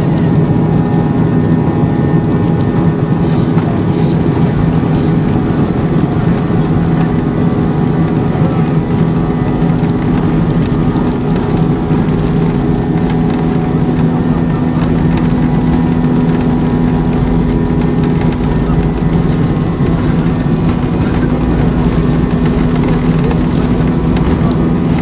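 Jet airliner's engines heard from inside the passenger cabin during takeoff: a loud, steady drone of rushing noise with several steady hum tones.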